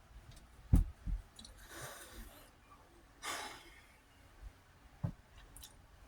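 A man breathing out in audible sighs between mouthfuls, two long breathy exhales. A sharp knock just under a second in, with a softer one right after, and a small click near the end.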